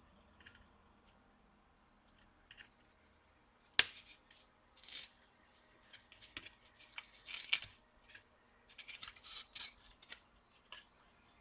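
Small cutters snipping the metal legs of a laptop's old power jack on the motherboard: one sharp snip about four seconds in, then a series of short scraping clips.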